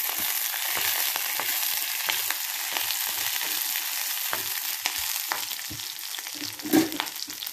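Ginger, green chillies and dried red chillies sizzling and crackling in hot oil in a kadai while they are stirred, with a few short knocks against the pan, the loudest near the end.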